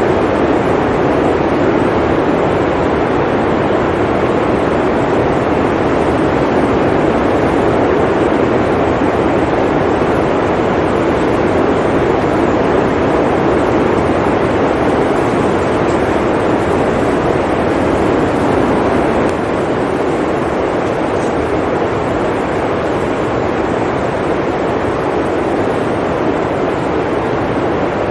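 Steady roar of blizzard wind, a dense even rush that eases slightly about two-thirds of the way through.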